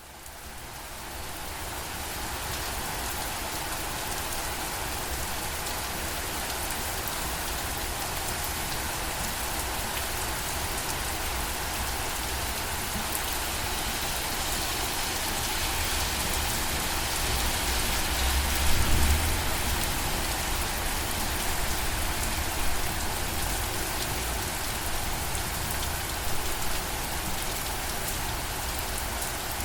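Steady rain falling on surfaces, fading in over the first couple of seconds. A brief low rumble swells up about two-thirds of the way through.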